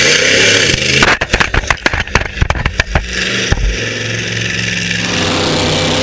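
Monster truck engine running hard, then from about a second in a rapid string of loud crashing impacts for about two and a half seconds as the truck smashes into the steel wall crash obstacle. After that the engine keeps running steadily.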